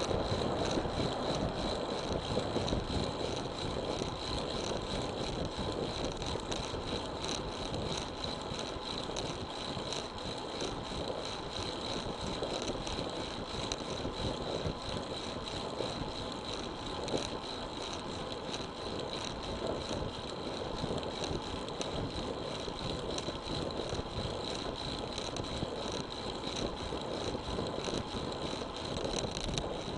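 Road bicycle riding along: wind buffeting the action camera's microphone over steady tyre and road noise, with a thin steady high whine on top.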